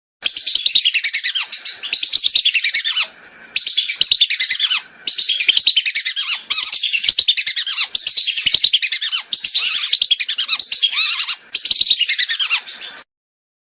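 Recorded lesser whistling duck (belibis) lure call: rapid, high-pitched whistled notes chattering in runs of a second or two with short breaks. The sound stops abruptly near the end.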